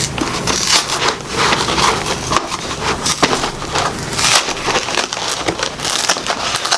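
Store-bought pie's packaging crackling and crinkling as it is worked open by hand, a dense run of irregular crackles and crunches.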